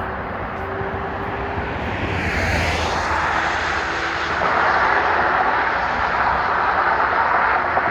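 Nissan 350Z's 3.5-litre V6 under a wide-open-throttle pull through a titanium exhaust: a loud rushing drone that swells about two seconds in and grows louder again from about halfway.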